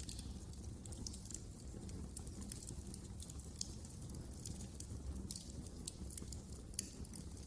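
Wood fire in a fireplace crackling, with irregular sharp pops and snaps over a steady low rush of burning.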